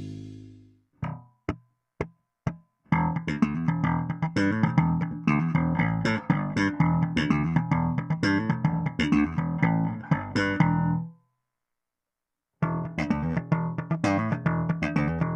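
Warwick Rockbass Streamer LX five-string electric bass recorded clean, straight into an audio interface with no amp. A held note rings out, then four short, quick plucks. A fast run of plucked notes follows for about eight seconds, stops for a second and a half, and starts again near the end.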